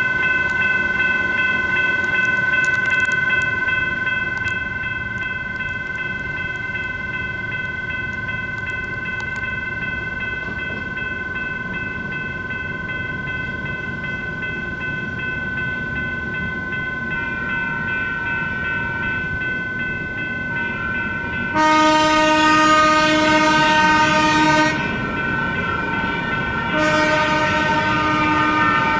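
A railroad crossing's US&S electronic bell rings steadily while a light rail train passes. In the last third a train horn sounds twice: a long blast of about three seconds, then after a short gap a second blast that runs to the end.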